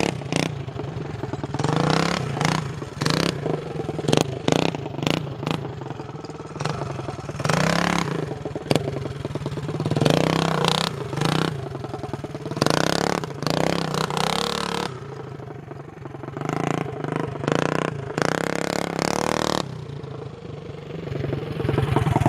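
Coleman CT200U minibike's small single-cylinder four-stroke engine running through a side-exit loop exhaust pipe, its revs rising and falling again and again as the throttle is worked.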